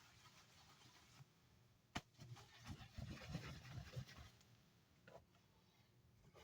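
Quiet handling noises: a sharp click about two seconds in, a couple of seconds of low rustling and knocking, then another faint click.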